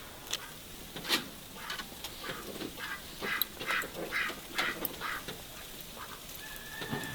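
A bird calling in a quick run of short, harsh calls, about two a second, for several seconds.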